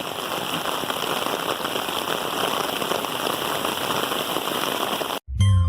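Steady rain falling, an even hiss of drops with no letup. It cuts off suddenly near the end, and a chiming music jingle begins.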